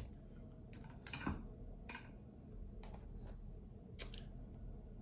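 King crab legs being cracked and pulled apart by hand: a series of sharp, irregular shell cracks and snaps, the loudest about a second in.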